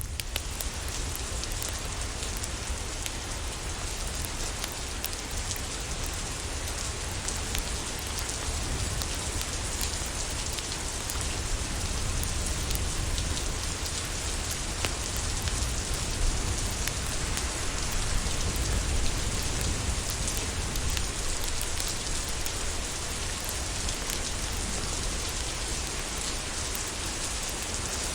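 Steady rain: a continuous hiss with many small, sharp drop ticks over a low rumble.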